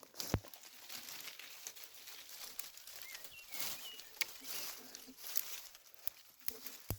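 Dry twigs and leaf litter being gathered and handled: continuous crackling and rustling with many small snaps, and a sharper snap near the start and again at the end.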